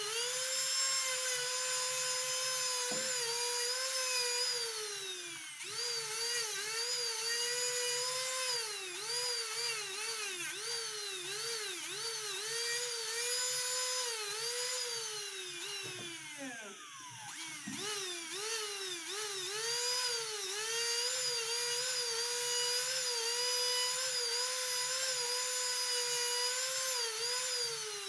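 Small high-speed rotary tool of the kind jewellers use for grinding and polishing, running with a steady whine. Its pitch dips briefly and springs back again and again as it is pressed against the work, and it slows right down once about two thirds of the way through before picking up speed again.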